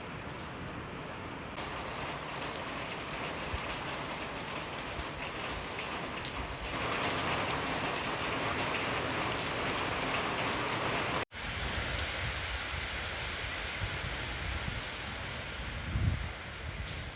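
Steady rain falling: a dense, even hiss that grows louder twice, with a brief low thump near the end.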